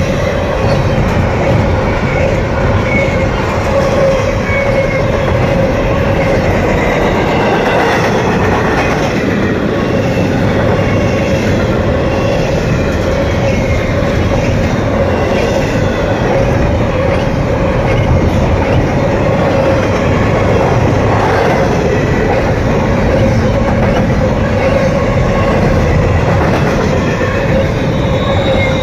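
Double-stack intermodal well cars of a freight train rolling past close by: steady, loud wheel-on-rail noise with a steady ringing note running through it.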